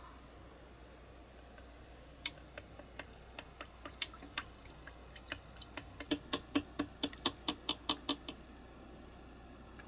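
Small sharp clicks or taps: a few scattered ones, then a quick even run of about a dozen at roughly five a second, stopping near the end.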